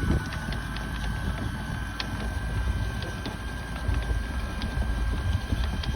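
Electric anchor windlass hauling in the last of the chain, its motor whining at a steady pitch with scattered clicks as links come over the gypsy. The anchor is near the surface. Wind rumbles on the microphone underneath.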